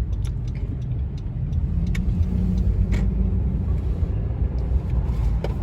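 Car driving, with a steady low rumble of engine and road noise heard from inside the cabin and a few light clicks.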